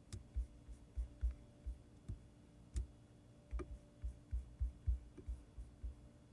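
Faint, irregular clicking and tapping of a computer mouse and keyboard, about two or three taps a second, some dull and some sharp, over a faint steady hum.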